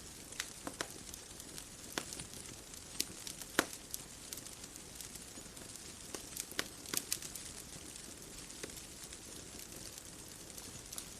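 Bonfire crackling: irregular sharp pops and snaps over a steady soft hiss, with one louder pop a few seconds in and a quick cluster of snaps past the middle.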